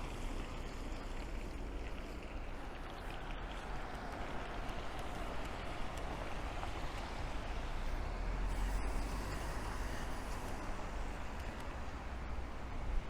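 Steady hiss of rain in a city street, with a vehicle passing on the wet road: the tyre swish swells from about a third of the way in and fades again, with a low engine rumble at its loudest.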